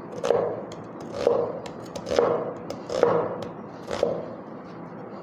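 Kitchen knife cutting vegetables on a cutting board: five slow, even cuts, about one a second.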